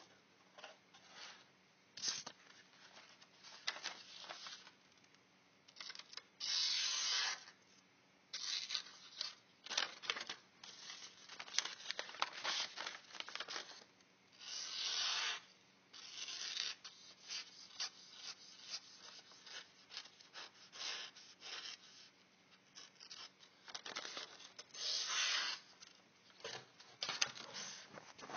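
Bark River Aurora knife, an A2 tool steel convex-ground blade, slicing through paper to test its sharpness: a run of cuts, a few long slicing strokes among many short scratchy ones. The edge is somewhat used and due for stropping.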